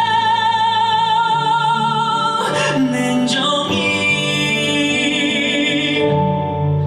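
A Korean ballad sung live over instrumental accompaniment: a long held note with vibrato, then the singer moves into the next line.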